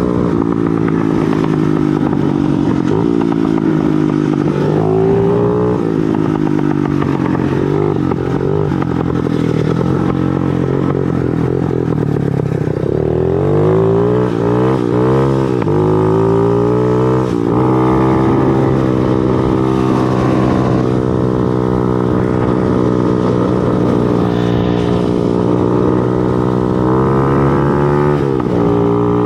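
Motorcycle engine running while riding, its pitch dipping and climbing again several times as the throttle is eased and opened through gear changes.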